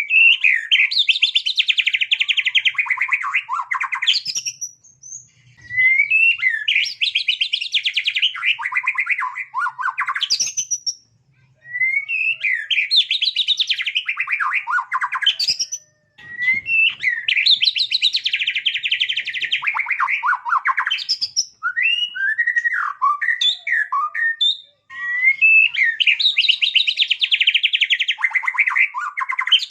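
White-rumped shama (murai batu) singing in repeated long phrases of rapid trilled notes with quick upward-sweeping whistles, each phrase a few seconds long and separated by short pauses.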